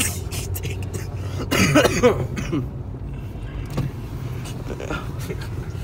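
Car running, heard from inside the cabin as a steady low hum, with a short burst of voice about two seconds in.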